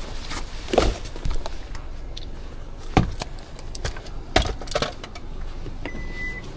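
Scattered clunks and jangling rattles, then a short, high electronic beep from a phone near the end.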